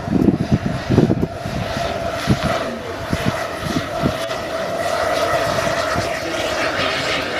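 Turbine-powered scale model helicopter (Jetcat PHT3 turboshaft) running in flight, a steady whine over rotor noise. Low rumbling bursts come in the first second or so.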